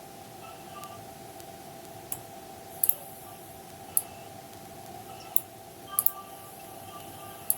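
Sharp clicks at irregular intervals of about a second, some in quick pairs, over a steady hum.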